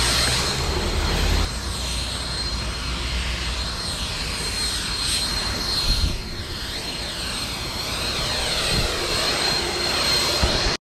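Battery-powered garden tool running steadily: a rush of air with a constant high whine, its tone sweeping up and down as it is moved about. It cuts off suddenly near the end.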